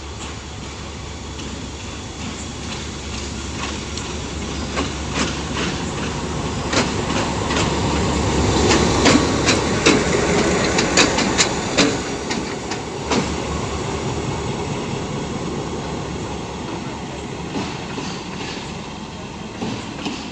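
Departing train passing behind a Class M2 diesel locomotive: wheels clacking over rail joints under a low diesel rumble. The clacks build to a loudest stretch near the middle, then fade away.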